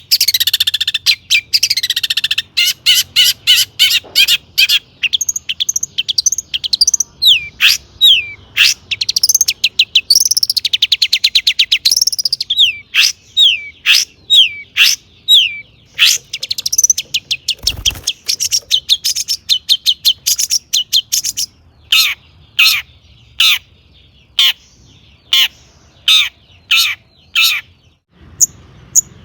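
Long-tailed shrike (cendet) singing a loud, fast, varied song of sharp chirps and falling whistles, packed with mimicked phrases of other birds, with a rapid trill about ten seconds in; the notes come more sparsely in the second half.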